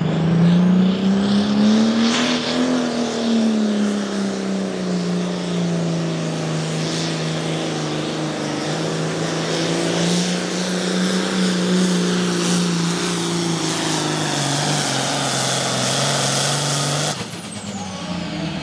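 John Deere pulling tractor's diesel engine running hard at full throttle down the track under the sled's load. Its pitch rises and falls as it pulls, then the sound drops off sharply near the end.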